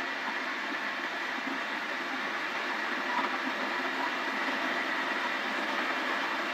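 Wood lathe running steadily with a cot leg turning on it, giving an even whirring hiss with no breaks.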